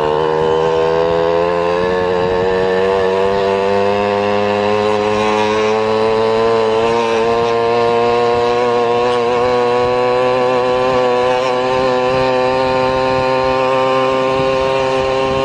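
A vehicle's engine pulling away and accelerating, its note rising slowly and steadily in pitch as it gathers speed.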